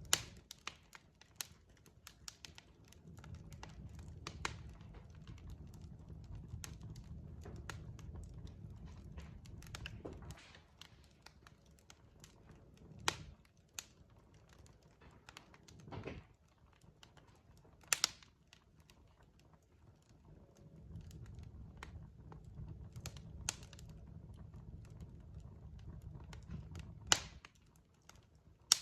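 Wood fire crackling: irregular sharp pops and snaps from burning logs, with a few louder pops, over a low rumble that comes and goes.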